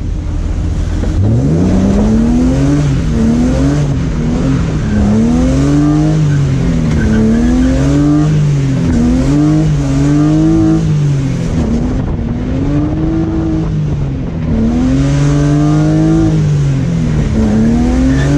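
BMW E36 engine revving up and down over and over as it is driven hard, the pitch climbing and dropping every second or two, with a brief easing off about two-thirds of the way through.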